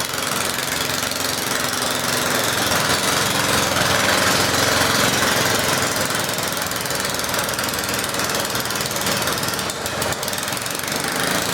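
Small garden-tractor engine running hard with a fast, rattling exhaust, pulling a weight sled under load.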